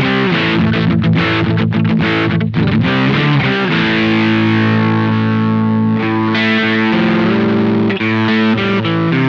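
Electric guitar played through a Velouria FX Witchcraft distortion/preamp pedal, giving distorted chords. Quick chord strokes come first, then a chord is left ringing for several seconds, and choppy strokes return near the end.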